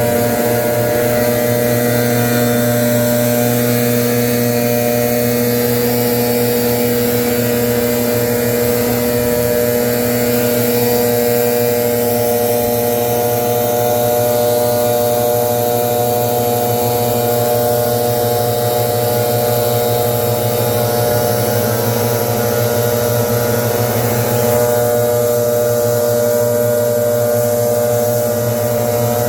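Gas-powered leaf blower running steadily, its engine and fan holding one pitch.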